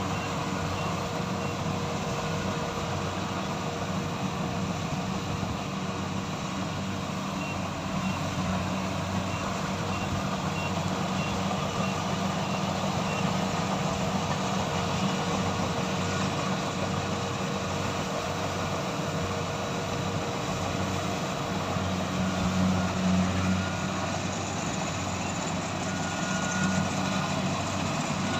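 Kubota combine harvester's diesel engine and threshing machinery running steadily under load, a constant low drone with a faint steady hum above it.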